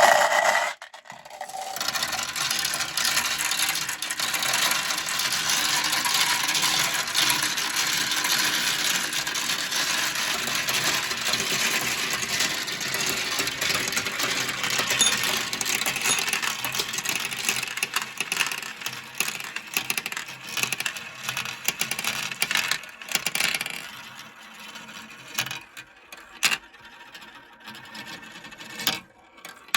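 Many marbles rolling and clattering down a Kumi Kumi Slope marble-run track: a dense, continuous rattle of clicks that builds up about a second in, then thins to scattered clicks near the end as the last marbles finish.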